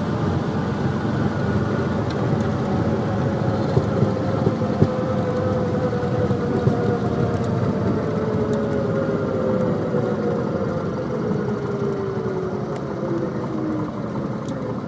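Piper Comanche single-engine light aircraft running at idle during the landing rollout, a steady engine and propeller drone with one tone that falls slowly in pitch as the aircraft slows.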